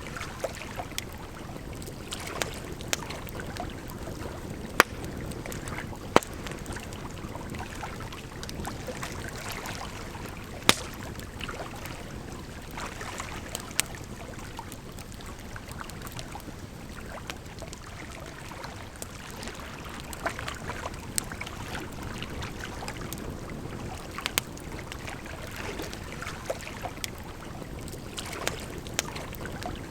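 Campfire crackling with irregular small clicks and a few sharp, louder pops, over a steady rushing sound of flowing water.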